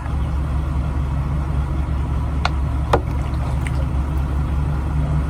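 Diesel semi-truck engine idling with a steady low rumble, with two sharp clicks about two and a half and three seconds in.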